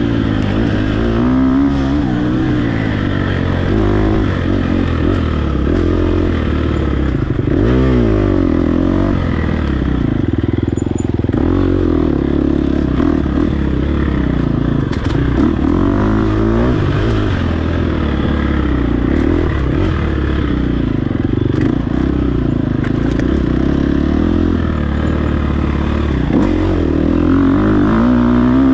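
Dirt bike engine running hard off-road, its pitch climbing and dropping over and over as the throttle is worked, with clattering and scraping over rough ground.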